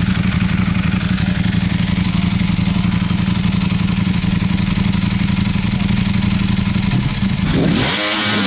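Vehicle engine running at a steady speed, then revving up sharply near the end.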